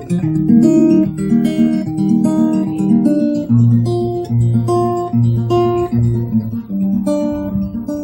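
Acoustic guitar picking a song's introduction: a run of single notes changing several times a second, with a low bass note repeated four times in the middle.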